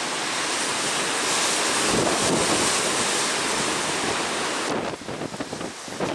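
Strong wind blowing across the microphone as a loud rushing noise that swells and then, near the end, turns into irregular gusty buffeting.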